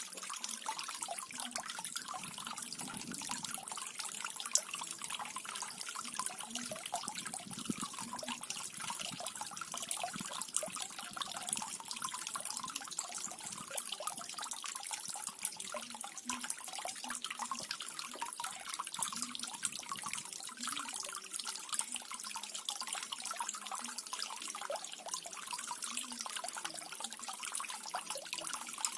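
Small garden waterfall trickling and splashing steadily, a dense patter of small droplet splashes over an even rush of water.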